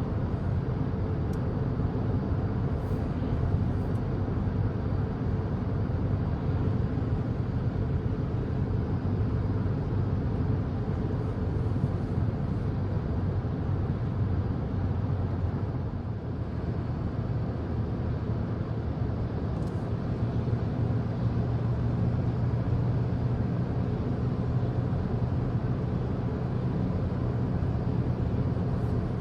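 Steady road and engine noise heard from inside a moving car's cabin, a constant low rumble with no change in pace.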